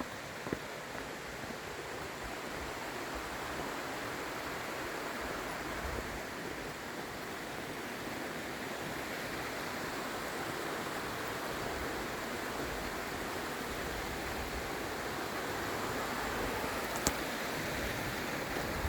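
Steady rush of fast-flowing mountain water, growing gradually louder.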